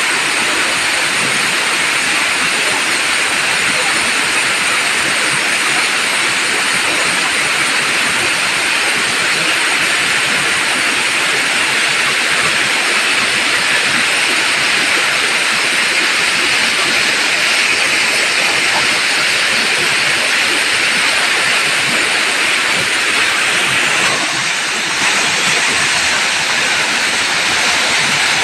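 Waterfall: water pouring and splashing down over rock in a loud, steady rush, dipping briefly about 24 seconds in.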